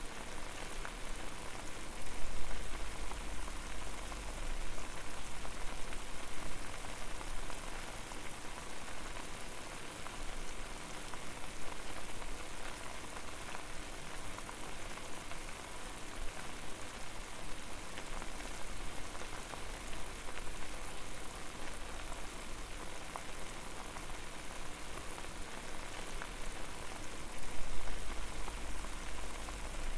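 Water at a boil over a fire: a steady, dense bubbling hiss with fine crackles. A low rumble swells up about two seconds in and again near the end.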